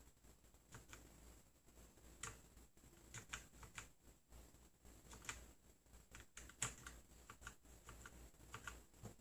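Keys of a computer keyboard being pressed: faint, irregular keystroke clicks, scattered singly and in short runs.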